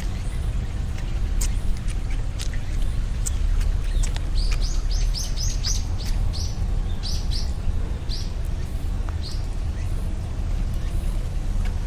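A small bird chirping: a run of about a dozen short high chirps, quick at first and then more spaced out. Underneath is a steady low rumble with scattered sharp ticks.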